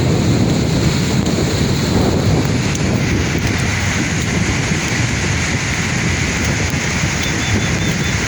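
Sea waves breaking in a continuous rumbling surf, with wind noise on the microphone.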